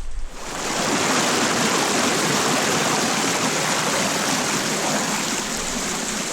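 Mountain creek rushing over rocks, a steady full wash of water that swells up in the first second and then holds even.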